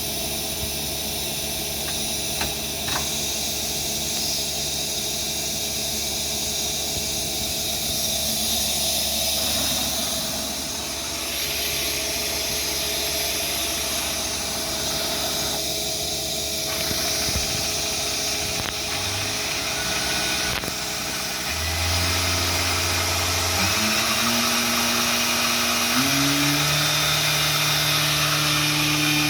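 Mazak QTN200M CNC turning centre running, with a steady machine hum under a constant hiss. In the last several seconds its motor tones step up in pitch a few times and then hold.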